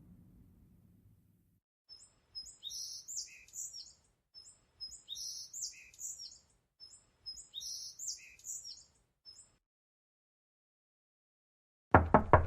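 Songbird chirping sound effect: the same short phrase of high chirps and trills three times, with gaps between. Before it a low rumble dies away, and near the end comes a loud knocking.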